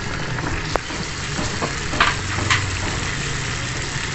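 Mixed vegetables stir-frying in an uncovered pan, with a steady sizzle and a few brief clicks or scrapes about two seconds in.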